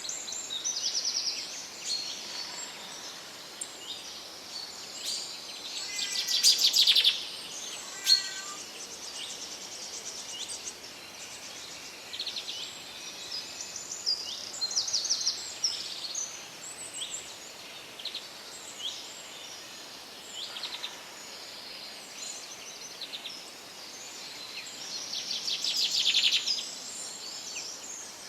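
Several wild birds singing and calling at once, overlapping high chirps and rapid trills over a faint steady hiss, with louder trilling bursts about six seconds in and again near the end.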